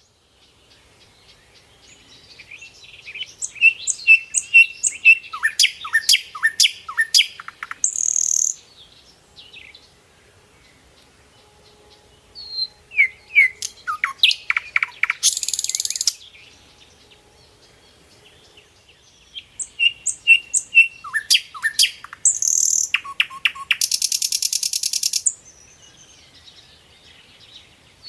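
A songbird singing in three bouts with short pauses between them. Each bout is a quick run of high chirps and down-slurred whistles that ends in a harsh, buzzy trill.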